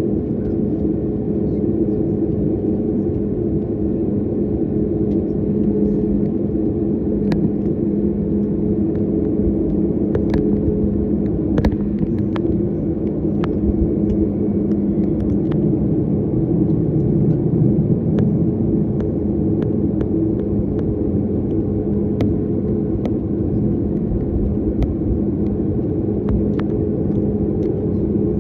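Steady drone inside a jet airliner's cabin: engine and airflow rumble with a low, even hum, and occasional faint clicks.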